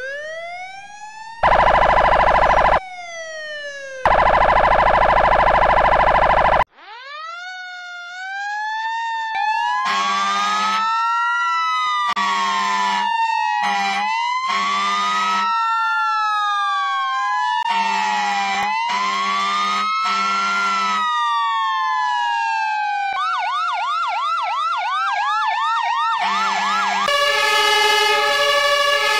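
Emergency vehicle siren winding up and then wailing slowly up and down, switching to a fast yelp near the end. Loud steady-pitched horn blasts sound twice in the first seven seconds and in short repeated bursts during the wail, and a dense horn sound comes in at the very end.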